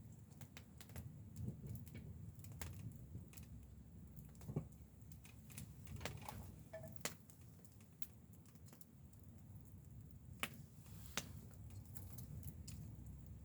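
Scattered faint, irregular clicks and taps over a steady low rumble.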